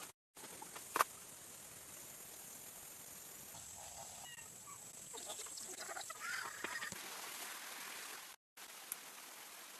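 Ducks calling with a few faint quacks in the middle stretch, and a single sharp tap about a second in.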